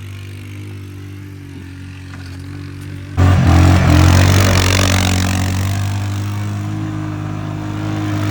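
Small off-road motorbike engine running steadily at low revs. About three seconds in, it jumps sharply louder with a rush of noise as the throttle is opened, then keeps running hard.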